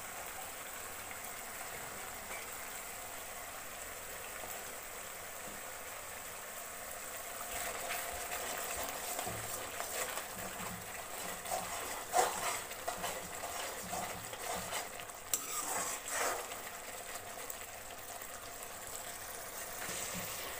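Ground masala paste sizzling and bubbling steadily in oil in a metal kadai. From about seven seconds in, a metal spatula stirs and scrapes against the pan for several seconds, and then the bubbling goes on alone.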